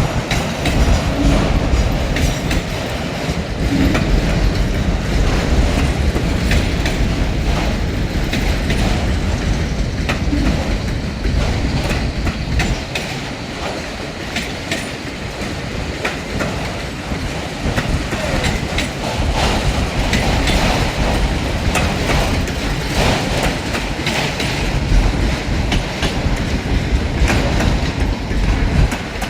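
Freight cars of a long train rolling past, steel wheels clicking over rail joints in a steady rumble.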